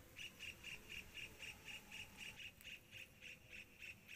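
A bird calling faintly, one short high note repeated steadily about four times a second.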